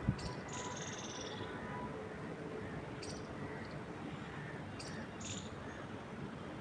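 Birds chirping over a steady rush of wind in trees: a fast trill of high notes starting about half a second in and lasting about a second, then short high chirps around three and five seconds in. A low thump right at the start.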